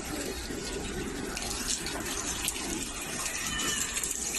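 Floodwater rushing: a steady, even noise of moving water.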